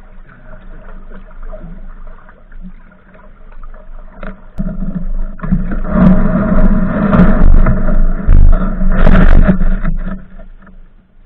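Kayak on the river: water noise and low rumbling on the camera microphone. It grows much louder about halfway through, then fades near the end.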